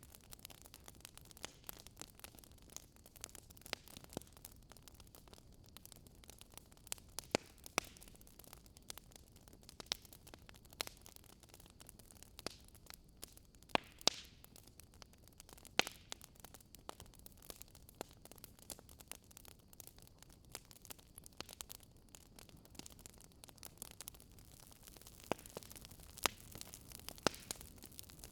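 Wood fire crackling: irregular sharp pops and snaps over a faint steady hiss, with a few louder snaps now and then.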